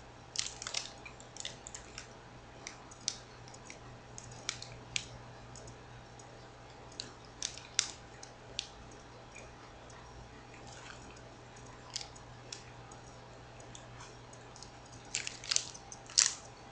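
Chewing a cinnamon crunch bar, with scattered crinkles and crackles from its foil wrapper over a faint steady low hum; the crackles come in small clusters, the loudest near the end.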